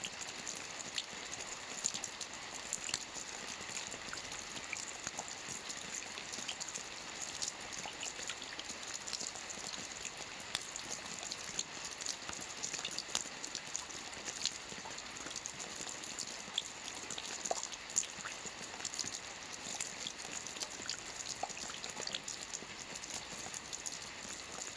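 Soft rain falling on a roof: a steady hiss dotted with many small, distinct drop ticks.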